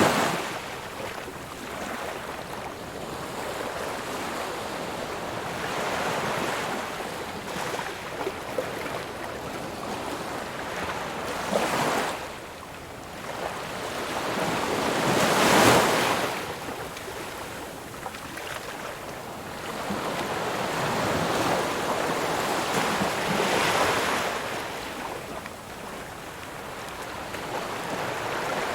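Ocean waves breaking and washing ashore, surging and falling away every few seconds, with one loudest crash about halfway through.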